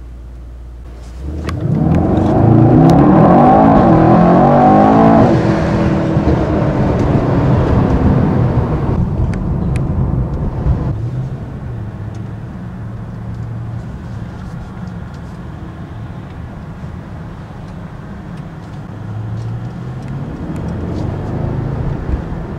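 Mercedes-AMG E63 S 4MATIC+'s 4.0-litre twin-turbo V8, heard from inside the cabin with the drive mode in Comfort, accelerating hard from about a second in. The revs climb to an upshift around five seconds, the engine pulls on, then eases off after about ten seconds to a steady cruise.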